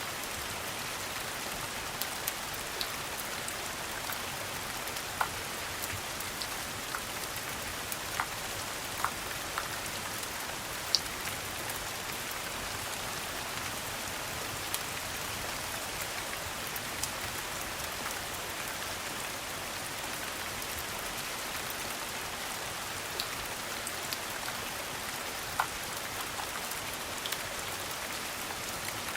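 Steady rain falling, an even hiss, with a scattered sharp pop or tick every few seconds.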